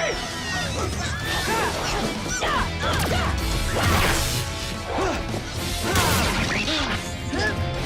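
Action-show sound effects, repeated crashes and impacts with short swooping effects, over background music.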